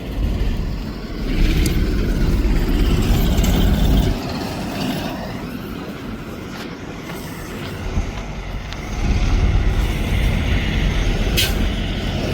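Low rumble of a heavy vehicle's engine running. It is louder from about a second and a half in to about four seconds, drops back, and swells again about nine seconds in, with a short sharp hiss near the end.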